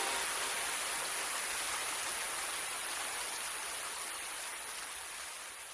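Steady rush of a mountain stream and waterfall, a full even hiss that slowly fades out toward the end.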